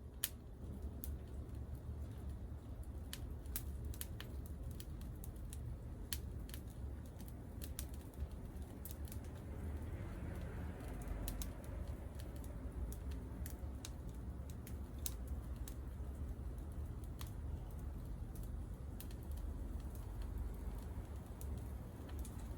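Wood fire burning in a Picogrill fire pit, crackling with irregular sharp pops over a low steady rumble.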